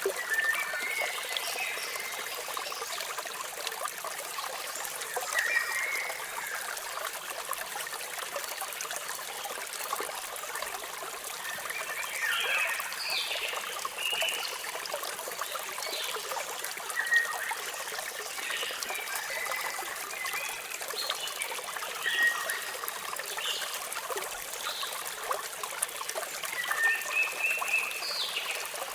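Falling water splashing steadily, with birds chirping on and off over it in short clusters of high calls.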